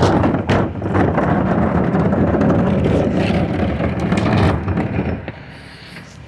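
Recycling truck running loud, with a few sharp knocks in the first second, then dying away about five seconds in.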